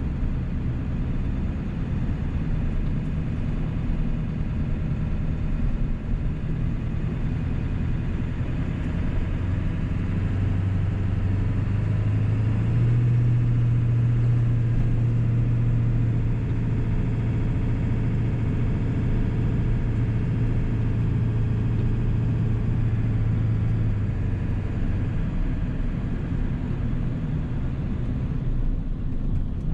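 1997 7.3 Powerstroke turbo-diesel V8 running under way, a steady low drone with a broad rumble. About ten seconds in the engine note grows stronger and rises slightly in pitch, holds steady, then eases back a little after twenty-four seconds.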